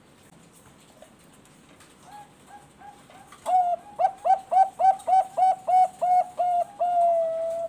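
Bangkok-type zebra dove (perkutut) singing. After a few soft short notes comes a loud, quick run of about a dozen staccato coos, and the phrase ends in one long drawn-out coo.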